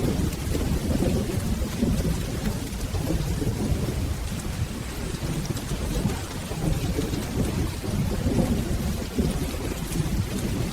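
Steady rain with a low, rolling thunder rumble running underneath, and faint scattered crackles on top.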